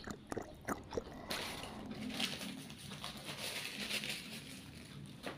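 Wet mouth clicks of chewing roast chicken for about a second, then a steady crinkling rustle from something light being handled in the hands.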